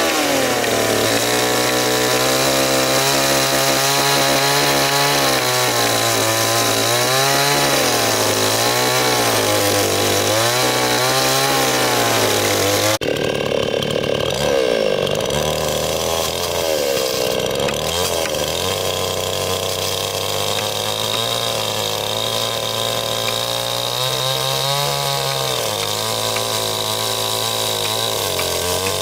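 Two-stroke chainsaw running under load as it cuts into wood, its engine note dipping and recovering again and again as the chain bites. The sound breaks off abruptly about halfway through and carries straight on.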